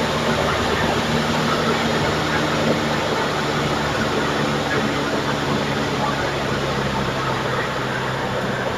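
A small plane's engine and propeller droning steadily, heard from inside the cabin.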